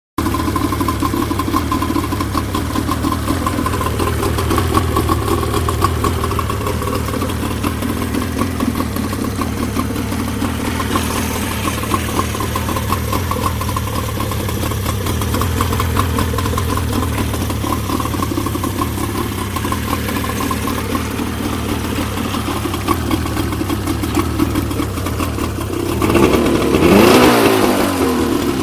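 40 hp Evinrude outboard motor running steadily under way, with a louder swell and a shift in pitch about two seconds before the end.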